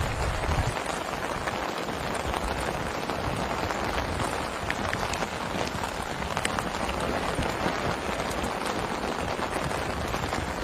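Heavy rain falling steadily, with many individual drops ticking close by. A low rumble dies away within the first second.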